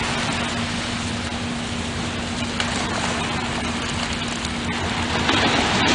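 Heavy construction equipment's engine running steadily with a constant low hum, under a steady rushing noise.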